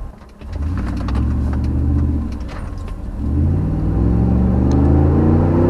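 Dodge Ram 1500's 5.7 Hemi V8 accelerating. The engine note climbs, drops back at a gear change about two seconds in, then climbs steadily again.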